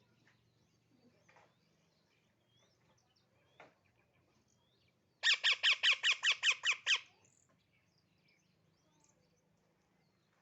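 Baby parrot calling: faint high chirps, then about five seconds in a loud burst of about ten rapid harsh calls, lasting under two seconds.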